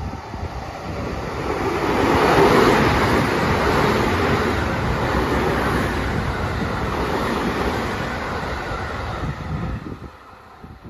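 Electric train passing through a station at speed without stopping. The rumble of wheels on the rails builds about a second in, holds loud and steady as the cars go by, then falls away sharply near the end.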